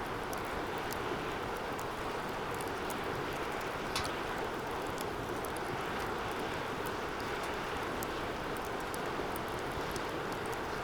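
Wood fire burning in a metal fire pit: a steady rush of flames with scattered small crackles and pops, and one sharper pop about four seconds in.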